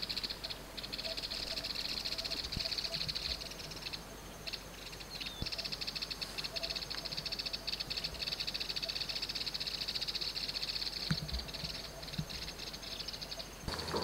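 A steady, high-pitched, rapidly pulsing buzz from a chorus of insects in the grass, broken off briefly a few times between about three and six seconds in.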